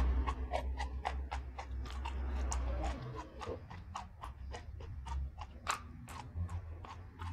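Close-up crunching and chewing of raw jengkol (dogfruit) beans, sharp crisp crunches about four a second, over a steady low hum.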